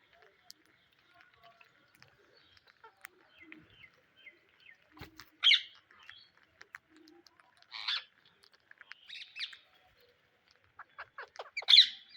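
Pet Psittacula parakeets calling: short, sharp calls spaced a couple of seconds apart, with a quick run of short clicking notes just before the loudest call near the end.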